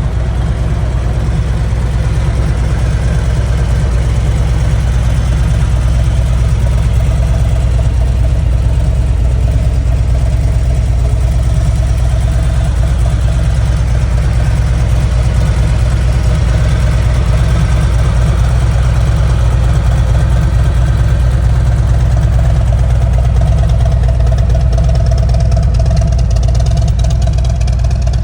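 2017 Harley-Davidson Street Glide Special's Milwaukee-Eight 107 V-twin idling steadily through a Rinehart exhaust, a deep low rumble.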